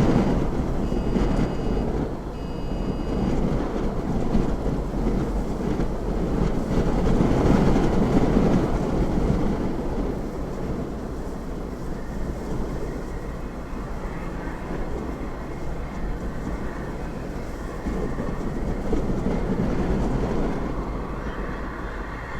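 A deep, steady roar of strong wind that swells and eases, loudest a few seconds in. Two short electronic beeps come in the first few seconds.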